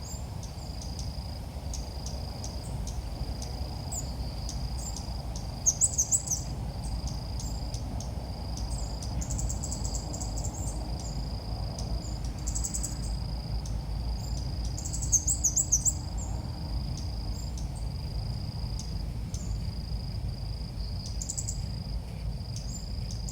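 Ốc mít birds singing short warbling phrases several times, the loudest about six and fifteen seconds in. Beneath them a short high note pulses steadily about once a second over a low rumble.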